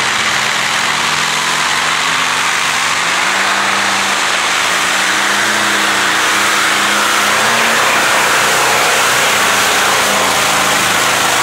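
Radial aircraft engine of a tractor-pulling machine running at full power during a pull, a loud, steady roar.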